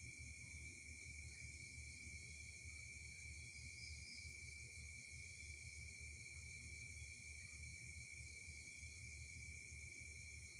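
Faint steady background: an unbroken high-pitched tone over a hiss and a low rumble, with nothing standing out.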